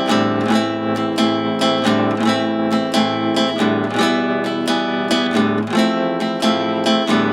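Acoustic guitar strummed in a steady rhythm, playing simplified chords without barres.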